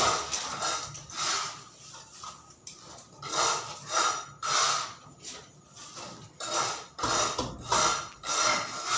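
Repeated scraping strokes of a hand tool on a gritty surface, roughly one a second and unevenly spaced, as in working cement or mortar.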